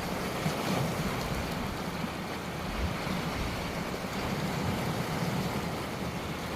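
Ocean waves surging steadily onto the shore.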